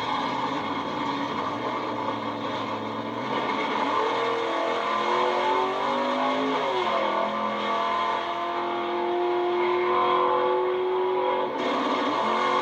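Drag racing engine at full throttle on a pass down the strip, its pitch climbing, then dropping and climbing again twice as it shifts gears.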